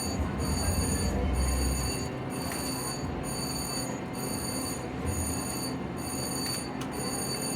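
Casino slot-floor din: electronic slot machine tones and chimes ringing in a steady pattern that breaks off about once a second, over a constant background hum.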